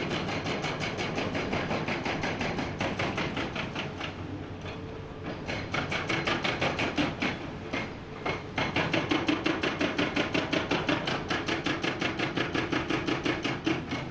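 Hydraulic rock breaker on a Komatsu PC490 excavator hammering rock: a fast, even string of blows, several a second, with brief pauses about four and eight seconds in. The excavator's diesel engine runs underneath.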